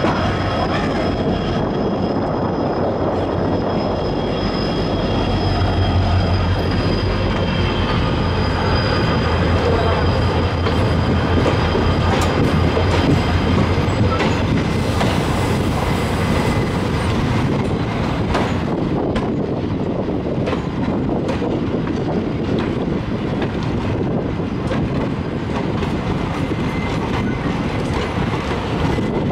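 Two passenger trains passing each other on adjacent tracks: the arriving WDP4 diesel-hauled train and its coaches go by close while the train being ridden rolls out. The rumble is steady, with a low drone in the first half as the locomotive goes by, thin wheel squeal in the first half, and quick clicks of wheels over rail joints through the second half.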